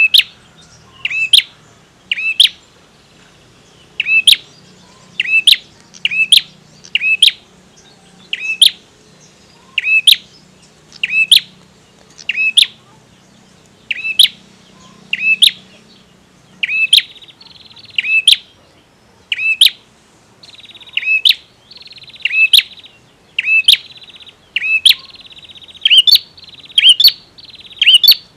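Male prinia (prenjak) calling: sharp, short chirps repeated about once every second or so. Through the second half a steadier buzzy trill runs under them.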